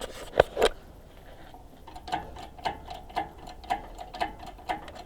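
Hydraulic engine crane being pumped to raise an engine: two sharp clicks, then a steady clicking, about two pump strokes a second.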